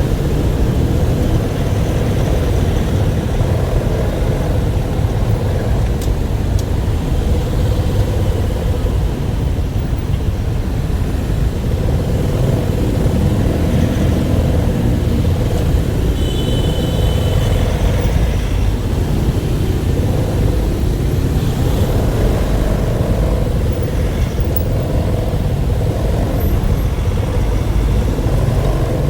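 A motor vehicle running steadily, with a heavy low rumble and a faint steady hum over it.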